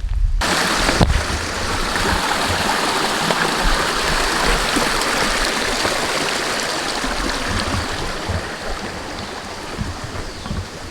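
Creek water flowing, a steady rushing wash that starts abruptly just under half a second in and eases slightly near the end.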